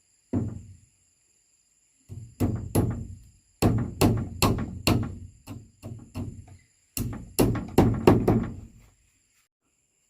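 Heavy knocks, one on its own near the start, then three quick runs of blows about two a second, each a dull thunk with a short low ring.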